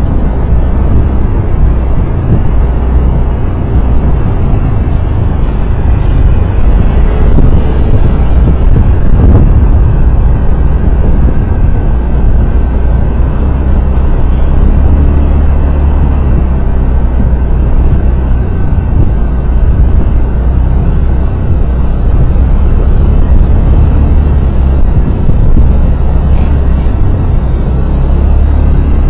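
Steady driving noise from a road vehicle under way: a constant low engine and road rumble.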